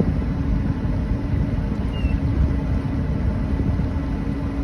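A 26-foot Rendezvous boat under way, its engine and hull running steadily: an even low noise with a faint constant hum.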